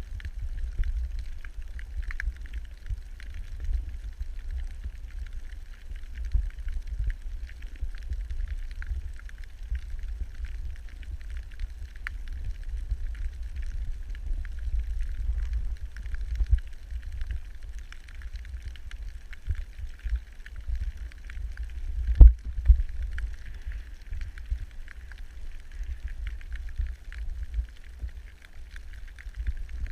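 Underwater camera audio on a coral reef: a steady muffled rumble of water moving against the housing, with continuous fine crackling and clicking over it, and one sharp knock about two-thirds of the way through.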